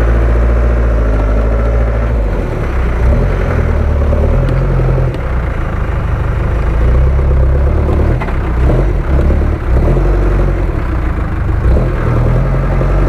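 A 4x4 SUV's engine running and revving unevenly, its low note swelling and falling again and again, while the vehicle is stuck and tipped steeply onto its side in a muddy rut.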